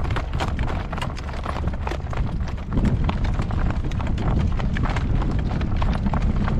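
A horse in harness trotting, its hooves clip-clopping in a quick, even rhythm. Beneath them runs a steady low rumble that grows louder about three seconds in.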